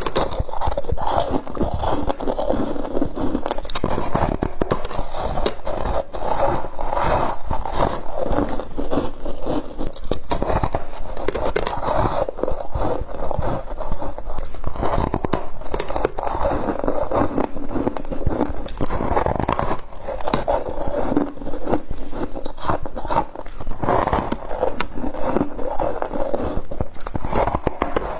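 Frost being bitten and chewed close to the microphone: a continuous run of dense, crackly crunching.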